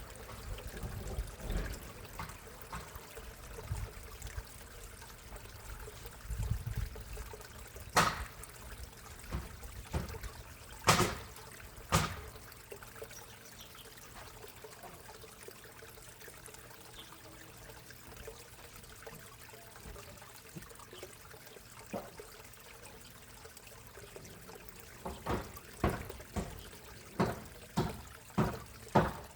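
Water trickling steadily into a backyard koi pond, with loud single knocks of roofing work, hammer blows, a few times in the middle and a quick run of them, about two a second, near the end.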